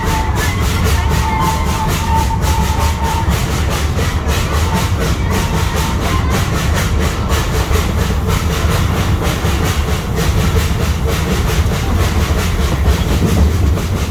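Steam-hauled zoo train running along the track, heard aboard a passenger car: a steady low rumble with regular clickety-clack from the wheels. A thin high squeal from the wheels sounds during the first few seconds.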